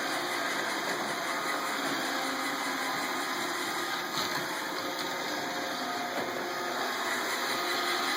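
iRobot Roomba robot vacuum running, a steady whir of its motors and brushes.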